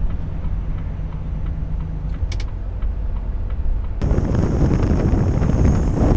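Inside a Volvo truck's cab on the move: a steady low engine and road drone, with two faint clicks about two seconds in. About four seconds in the sound jumps abruptly to a much louder rush of wind and road noise.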